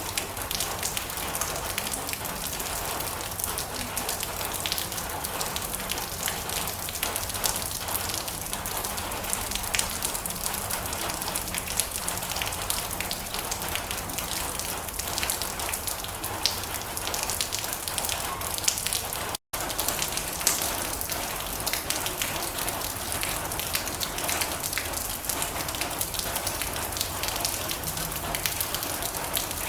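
Steady rain drumming on a metal roof: a dense, even patter of countless drop ticks. There is one momentary dropout about two-thirds of the way through.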